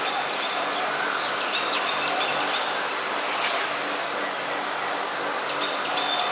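Several small birds chirping over a steady background hum of environmental noise, with one brief sharp sound about three and a half seconds in.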